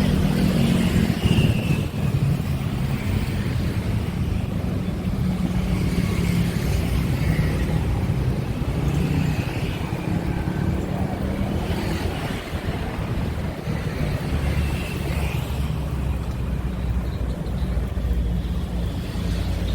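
Steady low engine rumble from motor traffic, with faint indistinct sounds above it.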